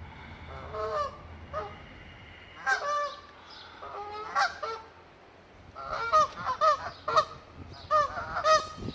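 Canada geese honking repeatedly, with scattered single honks and then a quick run of loud honks in the last few seconds.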